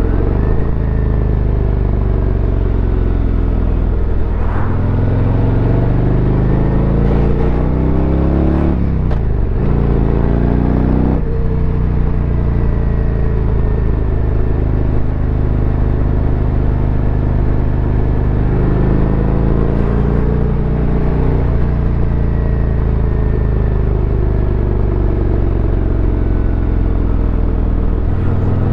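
Harley-Davidson Road Glide's Milwaukee-Eight V-twin engine accelerating through the gears. The engine pitch climbs several times and drops sharply at each upshift, then runs steadily for a long stretch before climbing again.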